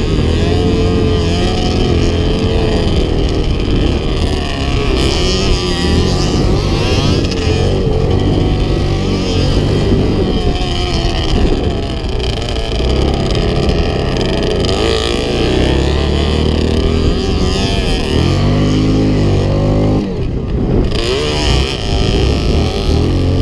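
Off-road motorcycle and quad engines running and revving, their pitch rising and falling again and again, with one strong climbing rev near the end.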